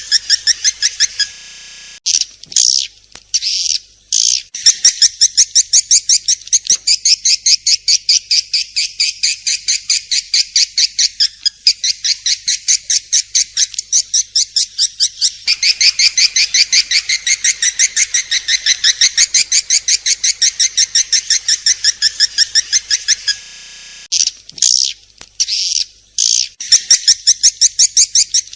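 Swiftlet calls: rapid, evenly repeated high chirps, about four a second, broken by brief choppy pauses near the start and again about three quarters of the way through.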